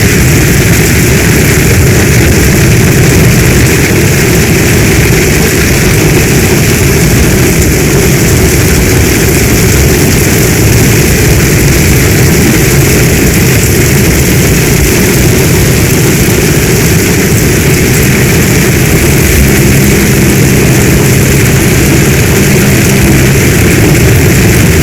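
Heavy storm rain falling steadily and loudly, a dense, unbroken rush with no separate drops or thunder standing out.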